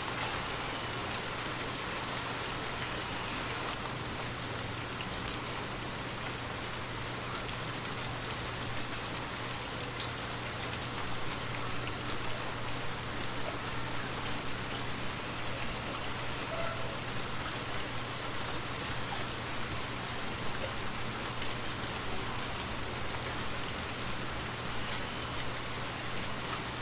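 Rain falling, an even hiss with scattered sharper drop ticks, a little more uneven in the second half.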